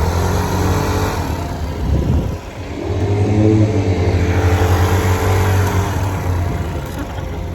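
Small motorbike engine running under way, easing off about two seconds in, then picking up again and pulling steadily. Wind rushes on the microphone.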